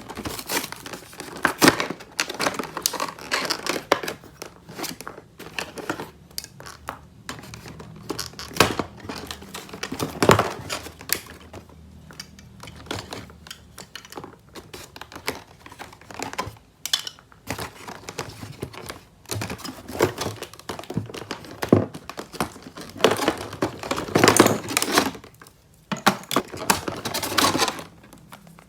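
Toy packaging crinkling and tearing as it is handled and opened, in irregular rustles broken by sharp clicks and snaps, with louder spells about ten seconds in and near the end.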